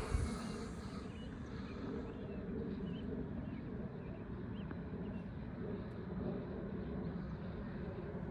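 Electric RC plane's brushless motor and propeller running in flight, heard from a distance under wind rumble on the microphone, with a few short bird chirps.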